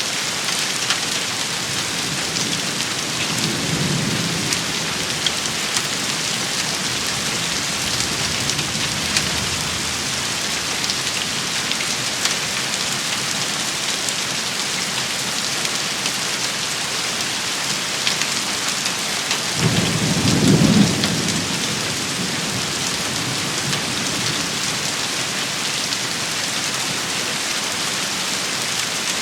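Steady rain shower, a dense hiss with scattered sharp drop impacts. Low thunder rumbles under it: a faint one about four seconds in and a louder one about twenty seconds in.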